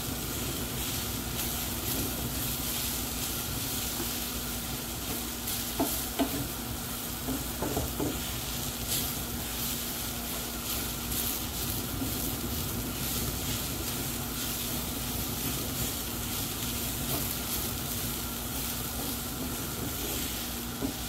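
Cauliflower rice frying in oil in a nonstick pan, sizzling steadily while a wooden spatula stirs and scrapes through it. A few louder knocks come about six to eight seconds in.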